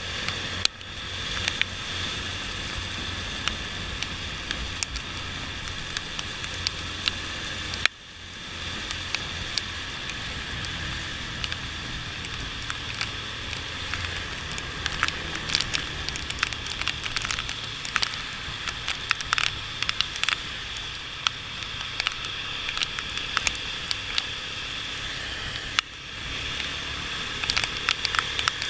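Motorcycle riding in the rain: many irregular sharp clicks of raindrops hitting the microphone over a steady hum of engine, wind and wet road. The level dips briefly three times.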